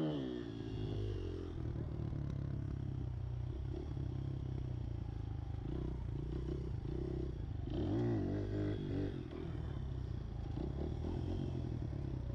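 Pit bike engine settling from a high rev to a steady low idle, with one short blip of the throttle about eight seconds in.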